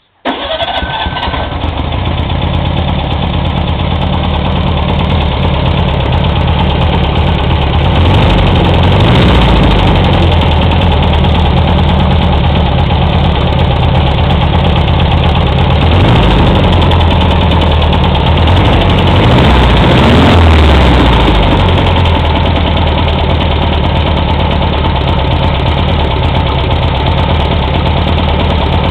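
1966 Volkswagen Beetle 1200 air-cooled flat-four engine bursting into life right at the start and then running steadily, its speed swelling slightly a couple of times.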